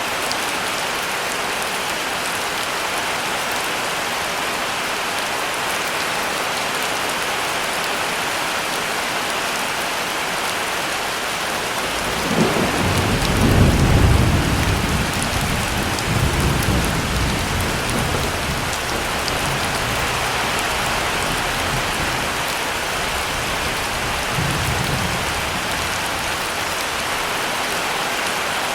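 Heavy rain falling steadily, with a low roll of thunder about halfway through that swells quickly, rumbles on for several seconds, and returns faintly a little later.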